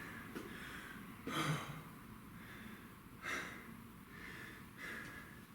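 A man breathing hard from kettlebell exertion, with three loud exhalations about a second and a half apart.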